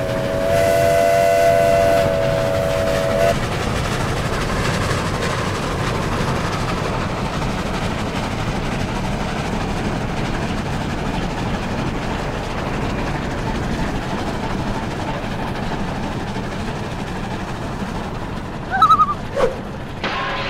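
A train whistle sounds a steady three-note chord for about three seconds, over the even, continuous rumble and clatter of a moving train that carries on to the end.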